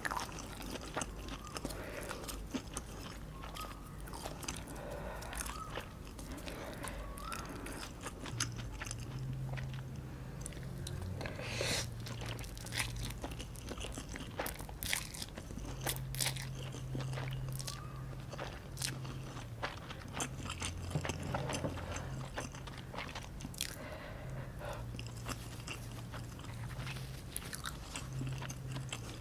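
Close-miked eating: bites and chewing with crunching, many small irregular mouth clicks.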